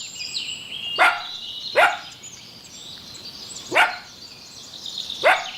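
A dog barking: four short, sharp barks with irregular gaps between them.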